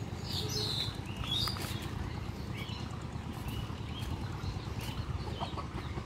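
Birds chirping in short calls, scattered and overlapping, loudest in the first second and a half, over a steady low rumble.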